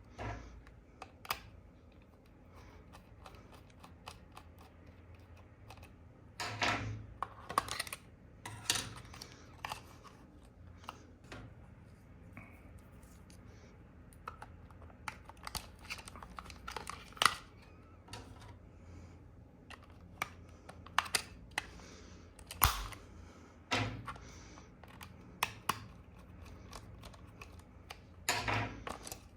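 Irregular clicks, taps and short rustles of hands handling plastic RC toy parts and their packaging, with a few louder clatters.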